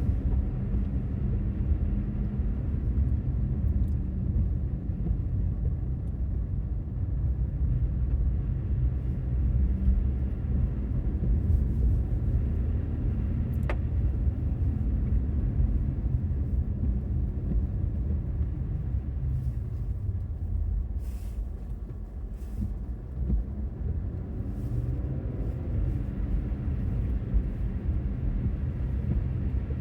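Infiniti Q50 Red Sport 400 being driven through snow: a steady low rumble of its 3.0-litre twin-turbo V6 and tyres, heard from inside the car.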